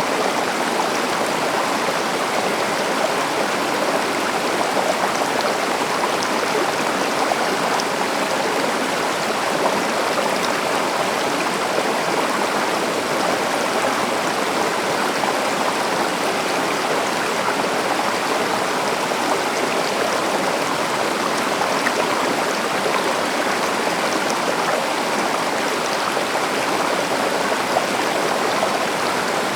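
A river or stream flowing over rocks: a steady, even rush of water with small splashing flickers.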